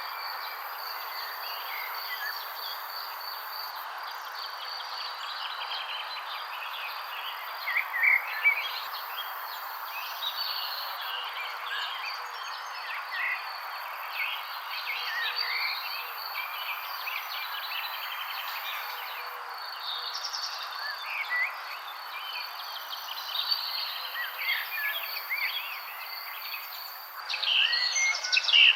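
Songbirds chirping and calling in short, quick phrases over a steady high insect trill and a constant background hiss. The bird calls come thickest and loudest about a third of the way in and again near the end.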